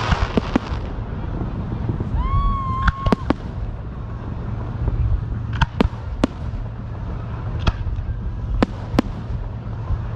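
Fireworks going off: a crackling burst with sharp pops at the start, a whistle that rises and then holds for about a second, and single sharp bangs scattered through the rest, over a steady low rumble.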